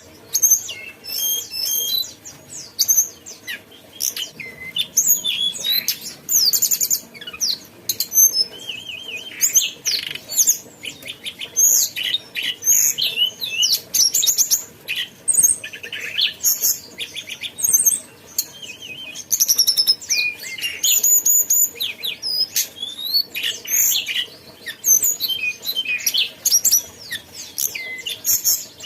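A tledekan gunung songbird singing non-stop: a fast, varied chatter of high chirps, sliding whistles and rapid trills, with hardly a pause.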